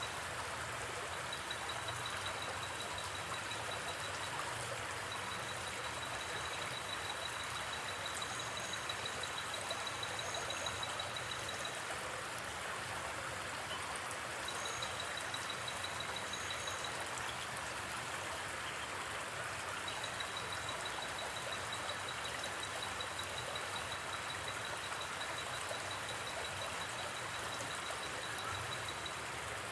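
River water flowing steadily, an even rushing hiss. A high, rapid pulsing trill comes and goes over it in stretches.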